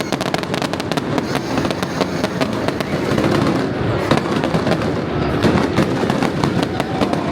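Fireworks going off in a dense, continuous run of rapid crackling pops.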